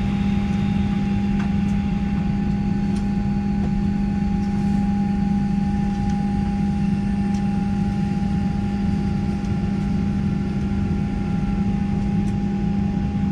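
Steady cabin drone inside a Boeing 737-800 on the ground before takeoff: an unchanging low hum with a thinner steady whine above it, from the aircraft's engines and air systems.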